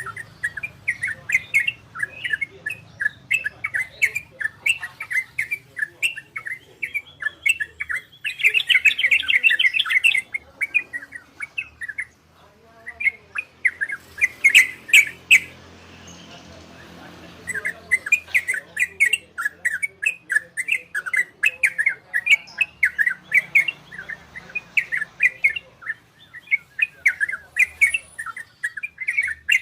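Yellow-vented bulbul (trucukan) singing in quick runs of short, bright chirps, with a dense fast trill about eight seconds in and brief pauses around the middle.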